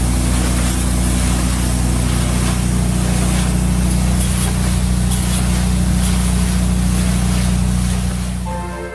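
Bin-cleaning truck's wash equipment running: a steady machine drone under a loud hiss of high-pressure water spray. It fades near the end.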